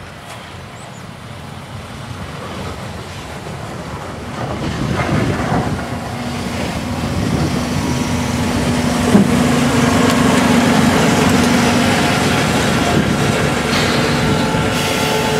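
Ki 105 Russell snowplow car and ED22 electric locomotive rolling past on arrival, the noise growing louder as the locomotive draws alongside. A steady electrical hum from the locomotive runs through the middle, with a single clunk about nine seconds in.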